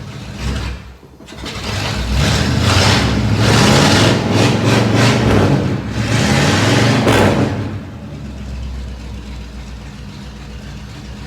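Chevrolet Chevelle Malibu V8 with a straight exhaust. After a momentary dip about a second in, it is revved hard in a series of throttle blips for about six seconds, then drops back to a steady idle.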